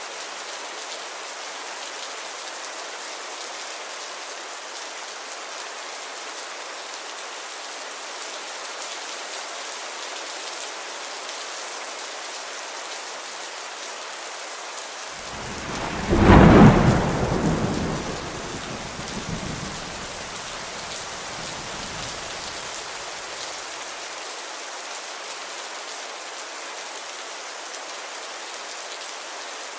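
Steady rainfall, with a thunderclap about halfway through that peaks sharply and then rolls away in deep rumbles over several seconds.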